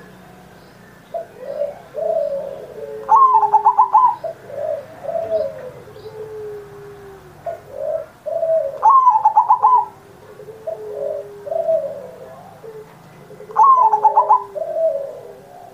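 Zebra dove (perkutut) cooing its song over and over. Each phrase opens with a quick stuttering run of higher notes, then several lower coos, and ends on a long falling note; the phrases repeat about every five seconds.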